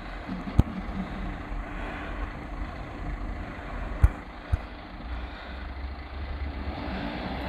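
Glass recycling collection truck's engine running steadily, with three sharp knocks: one about half a second in and two close together near the middle.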